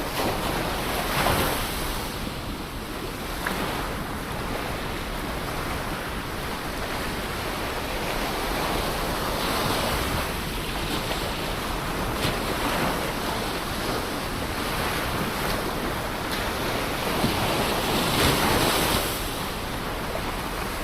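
Ocean waves breaking and washing on a shore: a steady rush of surf that swells three times, near the start, about halfway through and near the end.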